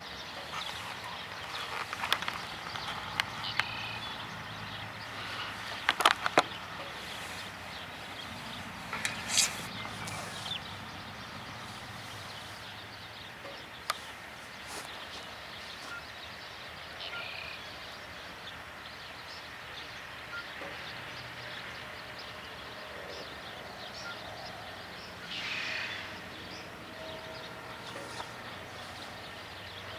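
Outdoor background noise with a faint steady low hum, broken by a few sharp knocks and clicks in the first ten seconds and a short rustling burst later on.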